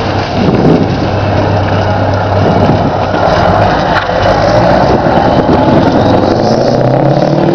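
Scania 143's V8 diesel engine running loud with a deep, steady drone, its note climbing near the end as it revs up.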